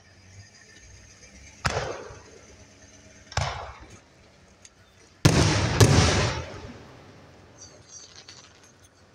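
Aerial firework shells bursting overhead: two single booms, then the loudest two bangs about half a second apart just past the middle, each trailing off in a rolling echo. Faint crackling follows near the end.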